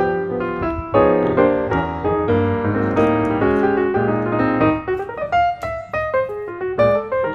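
Background piano music: chords over a bass line, thinning to sparser single notes about five seconds in.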